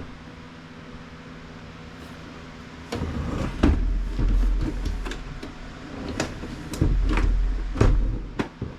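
Plastic parts of an HP printer being handled during teardown: a run of irregular clacks and knocks with low rumbling as the casing is moved, starting about three seconds in.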